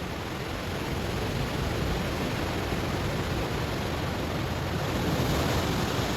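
Ocean waves breaking and washing over stones, the surf swelling gradually to a louder, hissing wash near the end.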